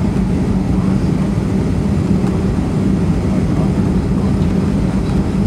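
Steady noise inside a Boeing 757 flight deck: airflow and engine noise with a constant low hum.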